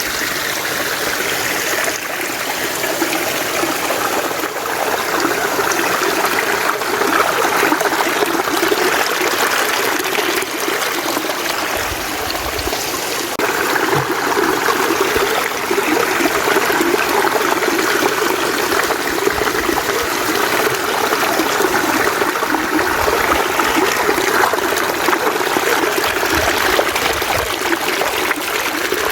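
Mountain stream running steadily over rocks, a continuous even rush and trickle of water.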